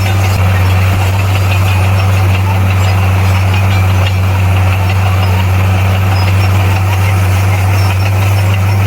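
Diesel engine of heavy earthmoving machinery running steadily, with a strong, even low drone and no changes in pitch or load.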